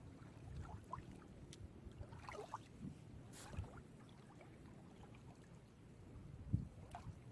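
Small sea waves lapping and splashing gently at the shore, a steady low wash of water with small irregular splashes.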